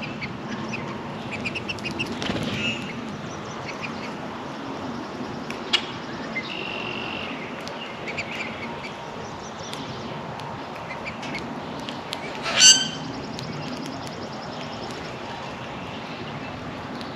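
Backyard songbirds calling and chirping at a bird feeder, with scattered short chirps and a brief whistle. One loud, harsh call comes about twelve seconds in.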